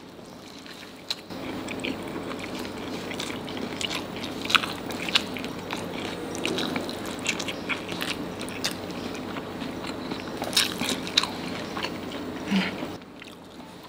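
Close-miked chewing of a hand-fed mouthful of nasi padang (rice with curried side dishes): continuous wet mouth noise with many sharp clicks. It starts about a second in and stops shortly before the end.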